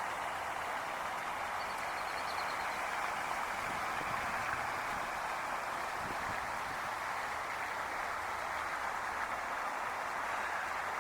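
Steady, even rush of flowing water with no change in level. A brief faint series of high notes sounds about two seconds in.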